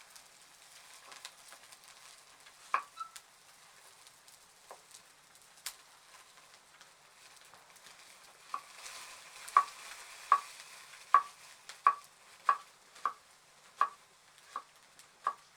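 Sharp knocks from a cooking utensil or knife: a few scattered ones at first, then about ten evenly spaced ones, roughly one every three-quarters of a second, starting about halfway through.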